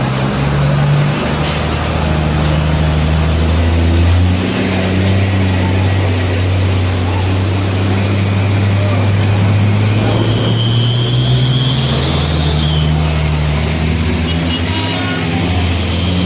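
Heavy truck diesel engine running under load, its low note shifting about four seconds in and again around twelve seconds. A thin high whine comes in around ten seconds in.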